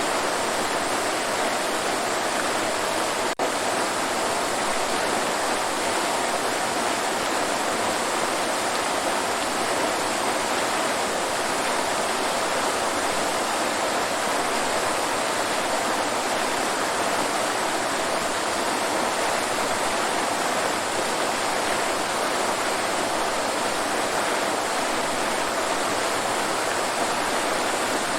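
Waterfall, a steady even rush of falling water, with a split-second drop-out about three seconds in.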